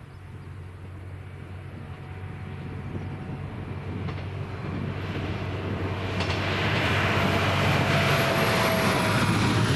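A train approaching, growing steadily louder over about seven seconds and then running loud and close, with a thin high whine coming in about six seconds in.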